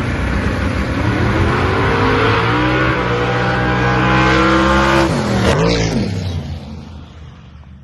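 Twin-turbo Ford-powered Ford Zephyr drag car making a hard pass down the strip: the engine pitch climbs steadily for about five seconds, then drops sharply as the driver lifts off, and the sound fades away as the car runs out the track.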